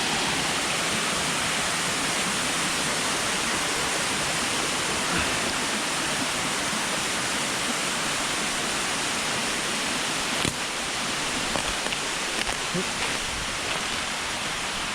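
Waterfall: a steady rush of falling water with no change in level. A single sharp knock comes about ten and a half seconds in, and a few light taps follow.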